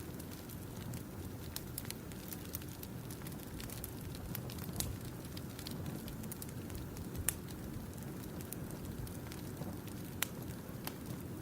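Campfire burning: a steady low rush with sharp, irregular crackles and pops, a few louder pops in the second half.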